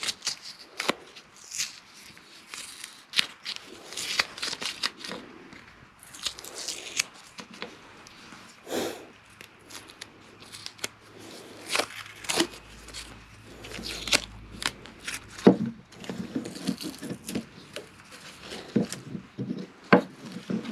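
Double-sided tape being peeled off wooden pieces: irregular tearing and crackling strokes, with a few light knocks as the pieces are handled.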